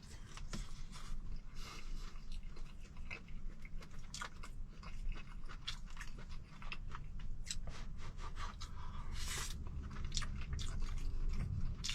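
Close-up eating of claypot rice: chewing and crunching mouthfuls, with irregular short sharp clicks and scrapes, over a low steady hum.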